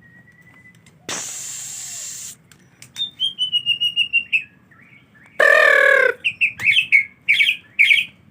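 Songbird calling: a fast run of about ten notes falling slightly in pitch, then a loud harsh call, then short calls repeated about twice a second. About a second in, a short hiss lasts just over a second.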